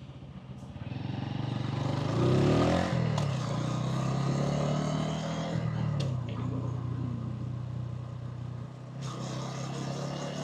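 Hansom Bike Venett 125cc motorcycle engine and exhaust while riding through city traffic. The revs rise about a second or two in, then hold steady, easing briefly around the middle.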